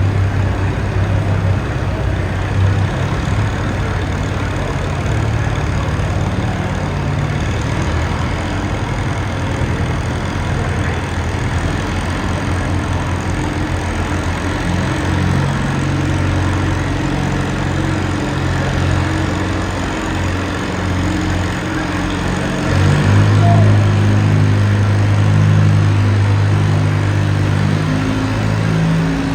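Tractor engine running steadily, its note shifting up and down several times; it gets louder and higher about three-quarters of the way through.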